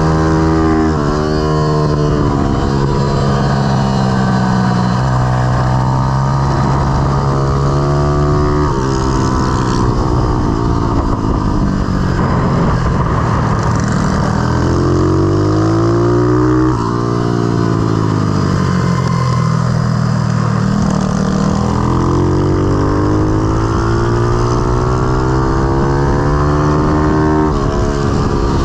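Pit bike's single-cylinder four-stroke engine at high load, its pitch climbing under acceleration and dropping off when the throttle closes, over and over, with a marked drop about two-thirds of the way through.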